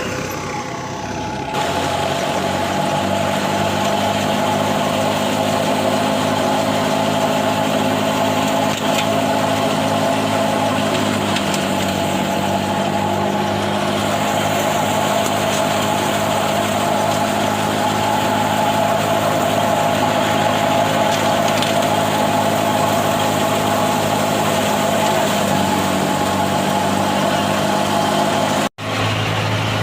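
Tractor engine running a wheat thresher, a steady drone. There is a sudden change about a second and a half in and a brief cut-out near the end.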